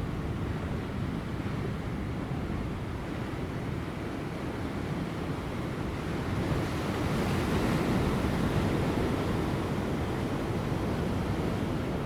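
Large ocean waves breaking on rocks, a steady wash of surf that swells as a wave breaks about seven seconds in.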